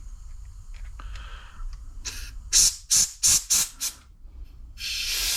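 Pressurised spray hissing into the passages of a gummed-up snowblower carburetor to clear them: about six quick blasts close together, then a longer steady blast starting near the end.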